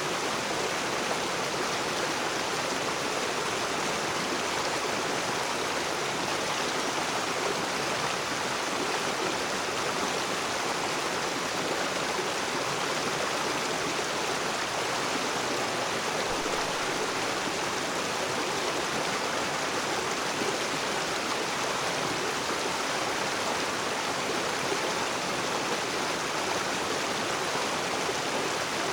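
Rocky river water rushing and splashing over stones in a steady, even flow.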